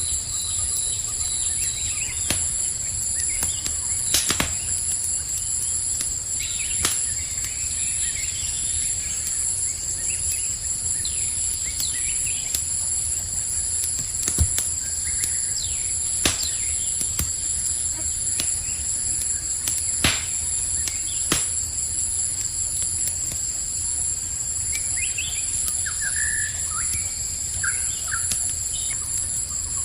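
Campfire crackling, with scattered sharp pops, over a steady high-pitched chorus of crickets. A bird gives several short chirps near the end.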